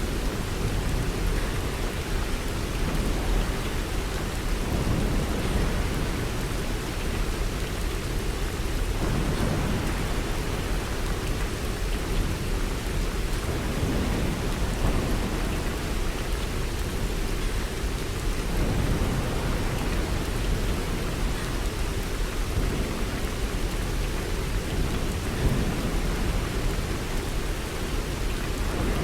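Thunderstorm: steady heavy rain, with low rumbles of thunder swelling now and then and no sharp claps.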